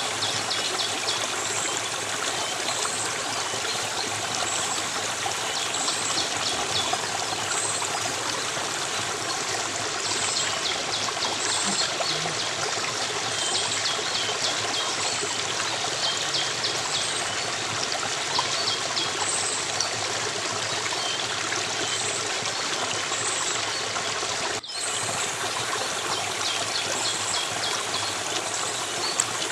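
Steady flowing stream water trickling and splashing, with faint high chirps repeating about every second and a half over it. The sound drops out for an instant about five seconds before the end.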